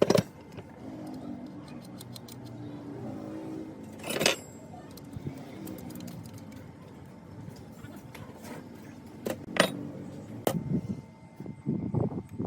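Metal parts clinking and knocking in a workshop: a few sharp strikes several seconds apart, three in quick succession a little past the middle, then a busier run of knocks near the end.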